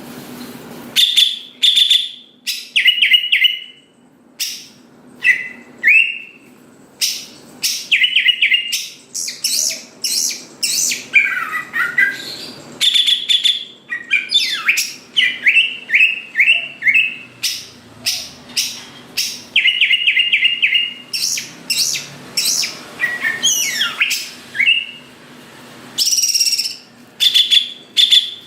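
Cucak ijo (green leafbird) singing in a continuous run of short, varied phrases: sweeping whistles, quick repeated chips and sharp clicks, a new burst about every second.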